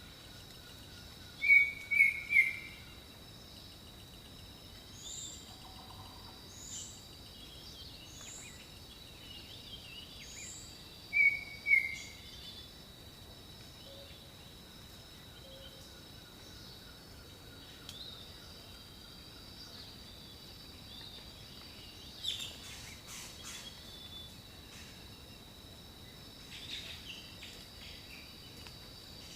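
Tropical forest ambience: a steady high insect drone under bird calls. Loud short descending whistled notes come three in quick succession about a second and a half in and twice more around eleven seconds, with a run of short high chirps every second or two between them.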